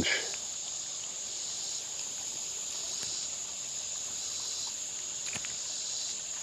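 Summer insects calling steadily: a constant high-pitched drone, with a second insect chorus pulsing on and off about once a second beneath it.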